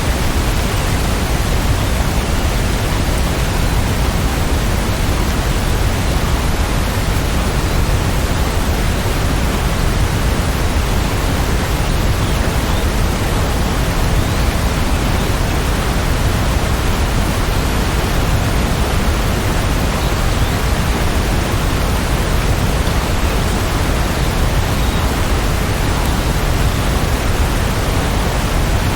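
Heavy rain falling, a steady, even hiss with no separate drops standing out.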